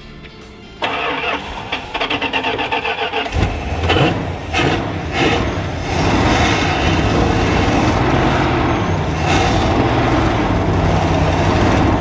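Winnebago Minnie Winnie motorhome's engine cranking on the starter in quick even pulses, catching about three seconds in and then running loudly with uneven revs.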